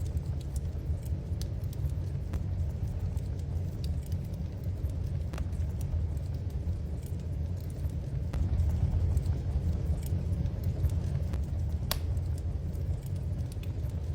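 Wood fire burning in a fireplace: a steady low rumble with scattered sharp crackles and pops, one louder pop late on.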